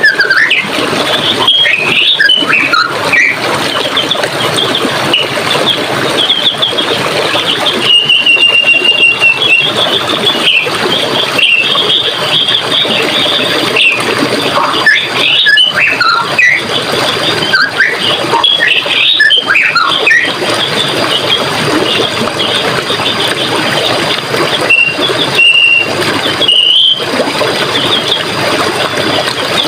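Running water rushing steadily, with small birds chirping and trilling over it; a bird holds a high whistled note about a third of the way in and again near the end.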